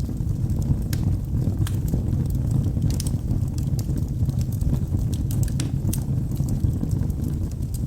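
Wood logs burning in a fireplace: a steady low rush of flame under frequent, irregular sharp crackles and pops.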